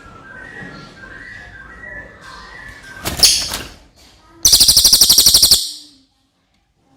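Cililin songbird singing: soft whistled notes, then a loud call about three seconds in, followed by a fast, loud rattling trill of about a dozen notes a second lasting just over a second. The song stops abruptly about a second before the end, leaving dead silence.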